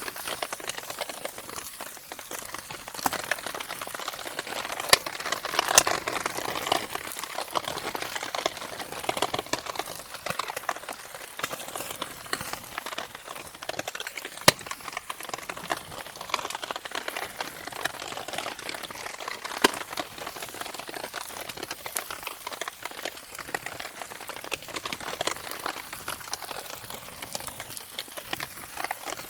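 Wood campfire burning in the rain, crackling with scattered sharp pops over a steady hiss, with a few louder pops about five seconds in and near the middle.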